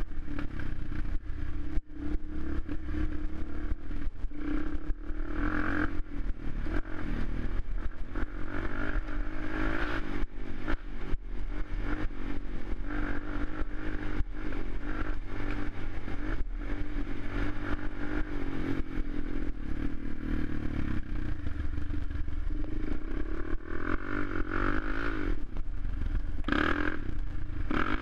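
Suzuki LTZ 400 quad's single-cylinder four-stroke engine running as it is ridden, its revs rising and falling with the throttle, with a stronger burst of throttle near the end. Many knocks and rattles run through it.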